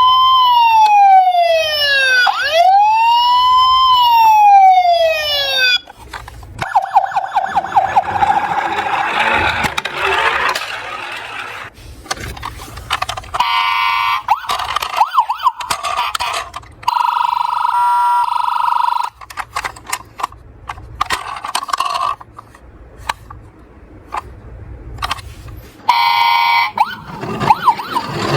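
Emergency-vehicle siren wailing, rising and falling about every two and a half seconds for the first six seconds, then shorter siren tones and pulsing beeps broken up by many sharp clicks and rattles.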